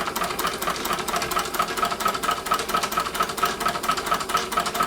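Large hot air engine running steadily on its Bix burner, its mechanism making a fast, even rhythmic clatter; it is running well.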